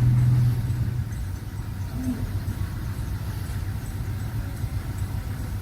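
Heavy diesel machinery engine running steadily with a deep hum that is stronger for about the first second, then settles to an even level.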